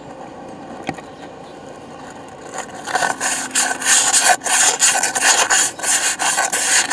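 800-grit emery cloth rubbed rapidly back and forth on a single-cylinder Briggs engine's crank pin, polishing the scored journal to take off aluminum fused on from a broken connecting rod. The rubbing is soft at first and grows much louder and faster about three seconds in.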